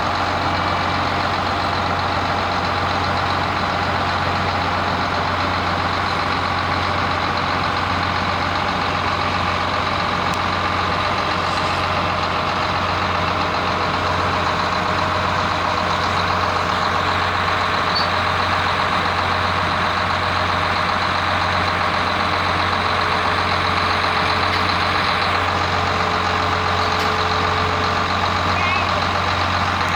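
Hay baler and the engine driving it running steadily: a constant low drone with a steady high whine, unchanging throughout.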